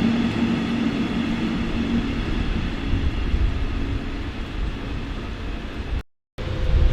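Electric train in a station: low rumble with a steady hum that fades over the first few seconds. Near the end the sound cuts out for a moment and a different steady hum comes in.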